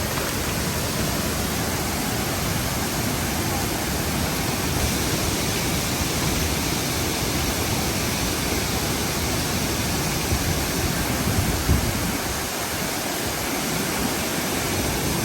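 Large waterfall roaring steadily, a dense rush of water falling into its plunge pool. A few low thumps come through about ten to twelve seconds in.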